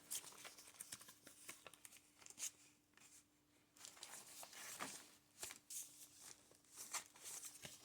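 Faint rustling and crinkling of paper pages being handled and turned in a large handmade junk journal, in short irregular crackles.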